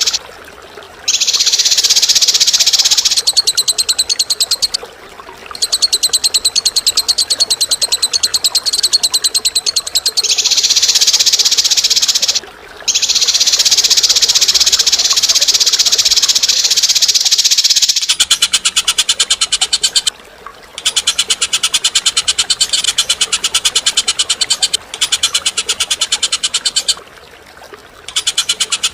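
Caged songbird singing long, rapid, harsh high-pitched trills in phrases several seconds long, with short breaks of under a second between them.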